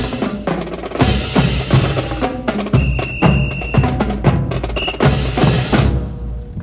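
Honor guard rifle drill: many rifles slapped by hand and struck on the ground in unison, with boots stamping, giving sharp wooden cracks about twice a second. A high held tone sounds for about a second midway.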